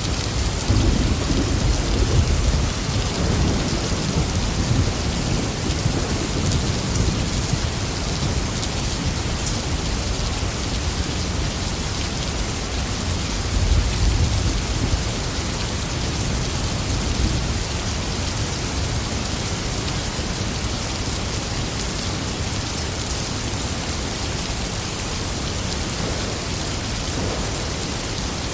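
Steady heavy rain with thunder rumbling low, swelling in the first few seconds and again about halfway through.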